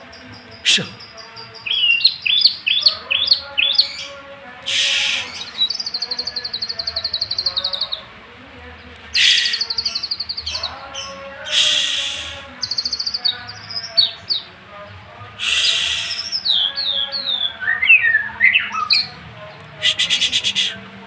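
White-rumped shama singing a long, varied song packed with mimicked phrases: rapid trills, slurred whistled notes and several short harsh, rasping bursts.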